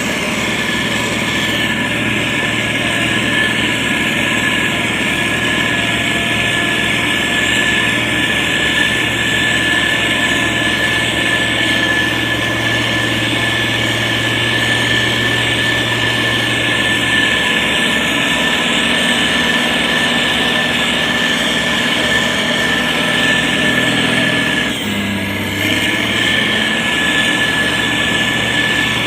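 Diesel engine of heavy road-construction machinery running steadily, with a high whine over the engine noise. The engine note briefly dips and shifts about 25 seconds in.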